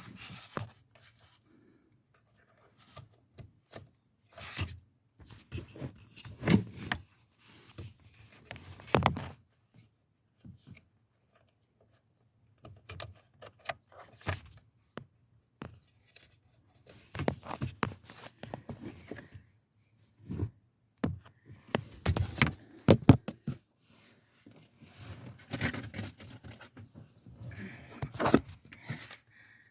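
Hands and tools working on plastic parts during a 2016 Jeep Patriot actuator replacement: irregular scrapes, clicks and knocks in bursts, with short pauses between them.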